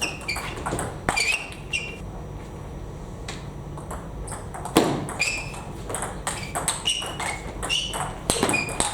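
Table tennis rallies: many quick, irregular clicks of plastic balls striking rackets and bouncing on tables, several with a short high ping, and a few louder knocks among them.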